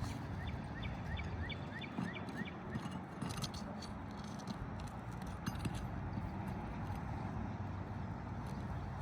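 Scattered clicks and scrapes of work on roof shingles over a steady low rumble. In the first couple of seconds a bird gives a quick run of about nine short rising chirps.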